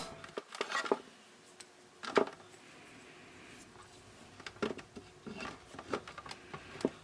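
Side cutters snipping small plastic tabs off a radio's case: a few sharp clicks and snaps in the first second, one more about two seconds in, then a run of smaller clicks and handling clatter near the end.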